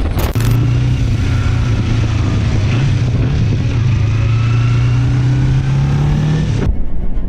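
Motorcycle engine running under steady acceleration, its note rising slowly and evenly over about six seconds above wind and road noise. The note cuts off abruptly near the end.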